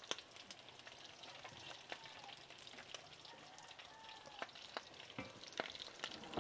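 Folded bean tacos frying in hot oil: a faint, steady crackle with scattered sharper pops.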